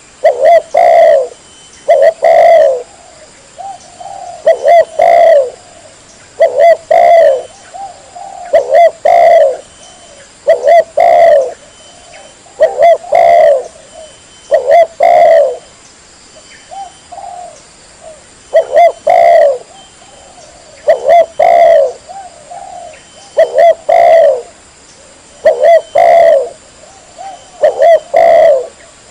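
Spotted dove (tekukur) cooing: loud, short coo phrases of a few notes, repeated every one to two seconds without a break. It is a bird-lure call recording meant to draw in wild spotted doves.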